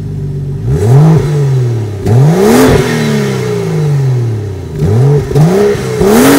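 2015 BMW 435xi's turbocharged 3.0-litre inline-six revved while parked, heard at its twin exhaust tips: an idle, then two long revs that each sink slowly back, then three quick throttle blips near the end.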